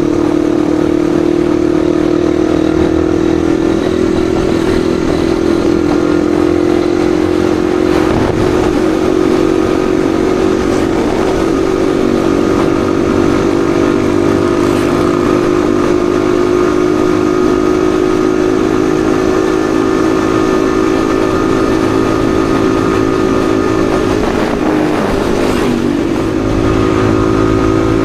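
Yamaha XSR155's single-cylinder engine running steadily while riding, holding a near-constant pitch. About 25 seconds in, the pitch wavers and dips briefly, then picks up again.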